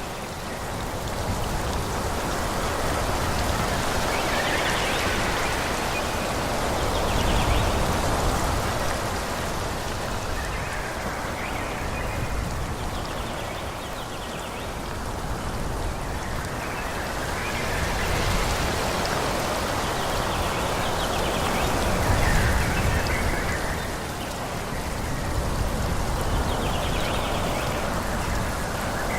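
Wind blowing through forest trees, a steady rushing of leaves that swells and eases in gusts every few seconds.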